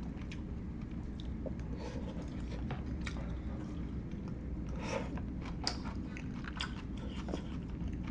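Close-miked chewing and mouth sounds of someone eating, with scattered small clicks and smacks over a steady low hum.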